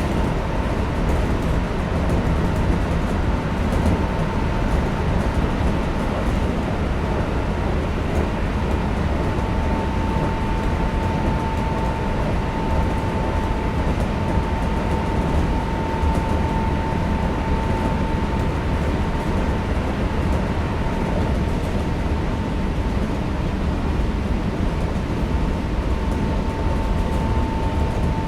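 Kintetsu 5800 series electric train running between stations, heard from inside the car: a steady rumble of wheels on rail, with a thin high whine that comes up about ten seconds in and holds.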